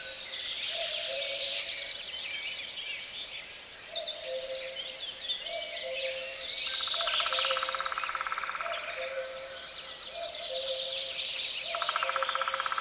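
Forest birdsong: many birds chirping and trilling together, with a low two-note call, the second note lower, repeating about every second and a half.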